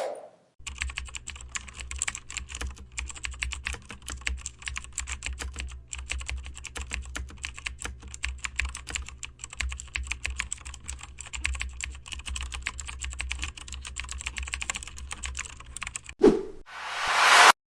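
Fast, continuous typing on a computer keyboard, a dense run of key clicks over a low steady hum, lasting about fifteen seconds. Near the end it stops and is followed by a short thump and a rush of noise that swells louder.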